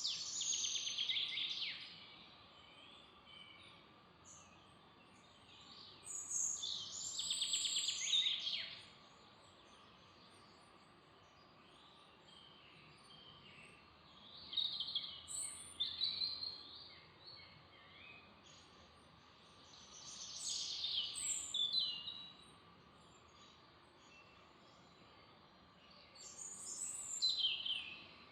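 A songbird singing, with phrases of two to three seconds repeated about every six seconds, over a faint steady background hiss.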